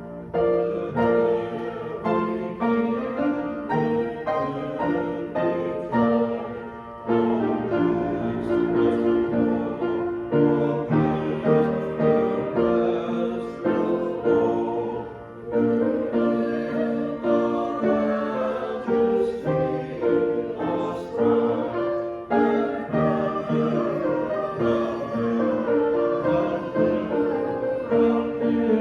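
Voices singing a hymn together with piano accompaniment, in phrases with short pauses between them.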